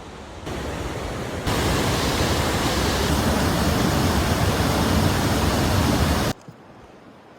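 Steady rushing noise that grows louder in two steps, about half a second and a second and a half in, then cuts off suddenly near the end.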